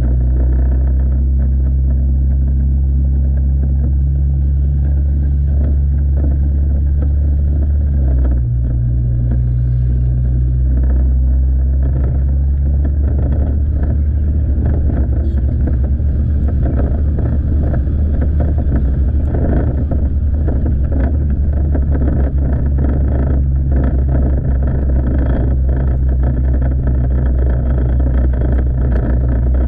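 Motorcycle engine running steadily under way, with road and wind noise; the engine note shifts about eight seconds in.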